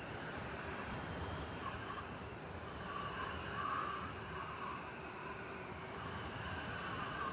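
City snowstorm ambience: steady wind-driven noise over a low rumble of traffic, with a faint wavering tone that swells briefly about halfway through.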